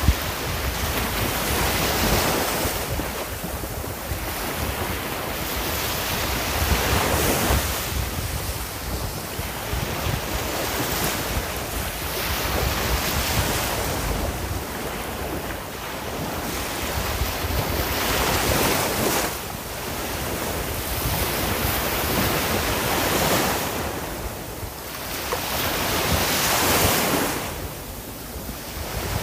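Sea waves breaking and washing on a shore, the surf swelling and easing every few seconds, with wind on the microphone.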